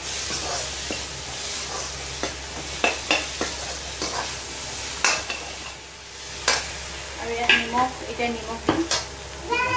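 Potato pieces frying in hot oil and masala in a metal kadai, with a steady sizzle. A metal ladle stirs them, scraping and knocking against the pan in irregular clicks.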